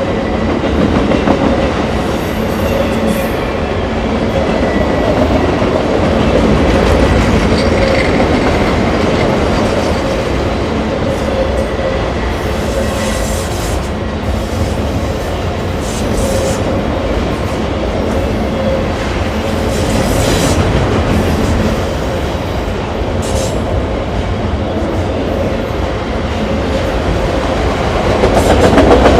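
Freight train rolling across a railroad bridge: a steady heavy rumble of wheels on rail with clatter from the cars and a thin, steady wheel squeal over it.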